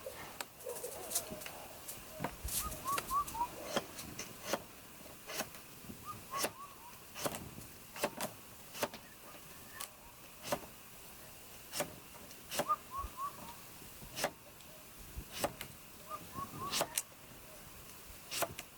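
Wood fire crackling with sharp, irregular pops, while a bird repeats a short call of three or four quick rising notes every few seconds.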